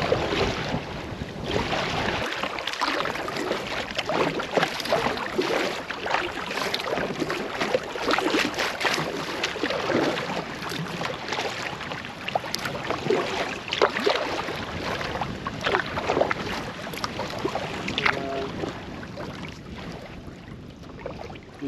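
Canoe being paddled: repeated paddle strokes in the water, with splashing and dripping.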